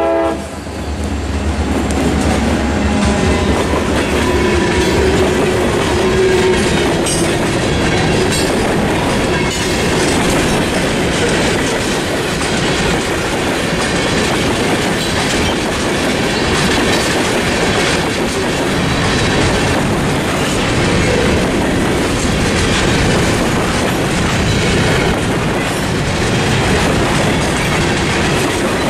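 Freight train passing through a grade crossing. The train horn cuts off right at the start, and the EMD GP40-2 and GP38-2 diesel locomotives rumble past in the first few seconds. Then tank cars and covered hoppers roll by with a steady clickety-clack of wheels over the rail joints.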